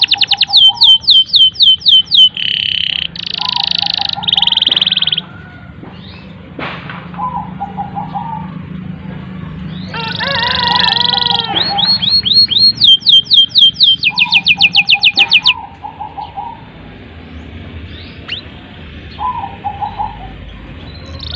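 A domestic canary singing a long, continuous song: fast repeated high trills and buzzy rolls, broken about halfway through by a rapid phrase of sweeping notes, with a lower warbling phrase recurring in between.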